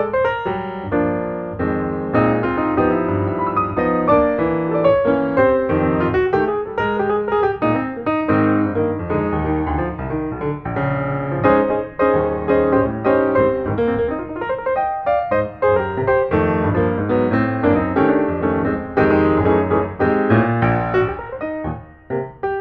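Background piano music: a quick run of notes with a bass line underneath, with a brief drop in level near the end.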